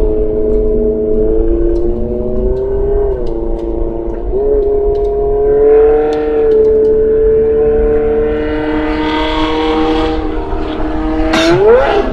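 Motorcycle engine through a megaphone-type muffler, revved by hand in a bosozoku-style 'call'. The revs are held fairly steady, with brief throttle blips about three and four and a half seconds in and a sharp rev rise near the end. The carburettors are not synchronised.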